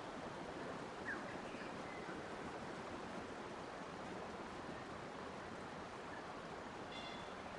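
Steady rush of running water, with a few faint, short bird chirps about a second in and near the end.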